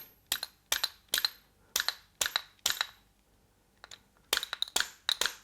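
About a dozen sharp metallic taps, each ringing briefly, in two quick runs with a short pause in the middle: the base of a Moki 215cc radial engine's cam cover being struck to knock it loose from the crankcase.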